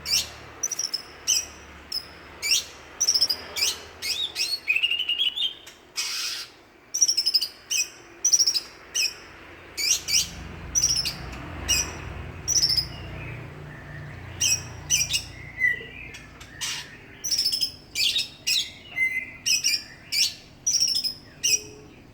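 Cucak ijo (green leafbird) singing: quick, high, sharply down-sweeping whistled notes in short bursts repeated about every half second to a second, with a few rising trills about four seconds in.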